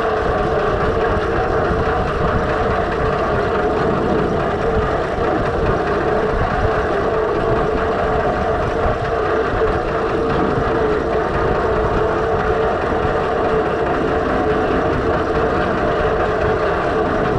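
Six-cylinder Perkins diesel engine of a Fordson Major tractor running steadily at an even speed, driving along in fifth gear.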